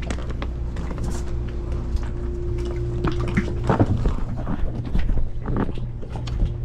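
Small boat's engine idling steadily, with scattered knocks and bumps as people move about in the boat.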